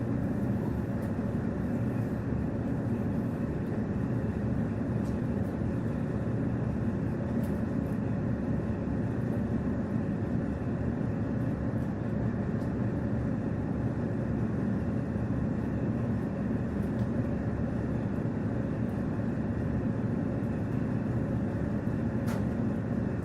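KiHa 48 diesel railcar running along the line, heard from inside the car: steady diesel engine hum and wheel-and-rail rumble at an even speed, with a few faint clicks.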